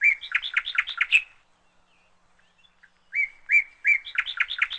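A songbird singing two matching song phrases with a quiet gap of about two seconds between them, each a couple of clear whistled notes followed by a quick run of chirps.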